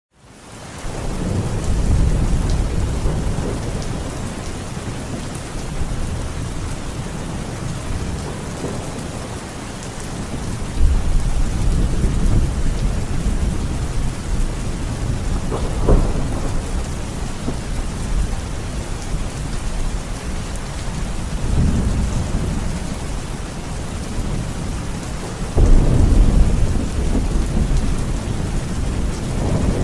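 Heavy rain falling steadily, with a deep rumble underneath that swells and fades and surges louder a few times.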